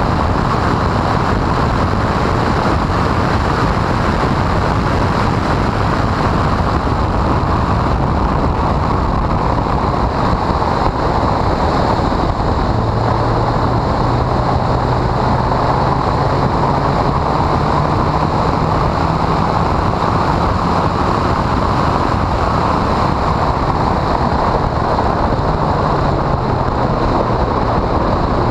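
Honda CRX at speed on a race track, its engine note mostly buried under loud, steady wind buffeting on the microphone. About halfway through the engine note climbs slowly, and near the end it drops.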